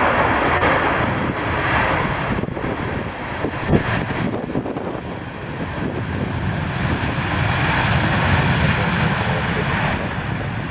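Jet airliner's engines running loud during its landing, a dense roar that swells and eases, loudest a little past the middle, with a brief sharp knock about a third of the way in.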